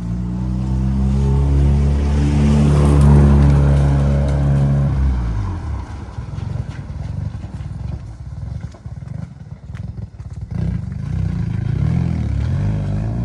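A motor vehicle passing close on a wet road: engine hum with tyre hiss building to a peak about three seconds in, dropping in pitch as it goes by, then a rougher low rumble as it pulls away.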